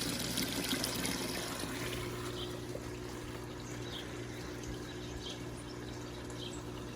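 Steady trickle of running water into a garden pond, with faint short high chirps now and then.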